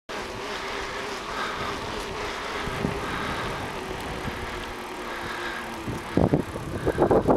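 Steady rolling noise of a bicycle being ridden along a trail, with a faint steady hum. Near the end come several loud, low thumps and rumbles, as from the bike jolting over bumps.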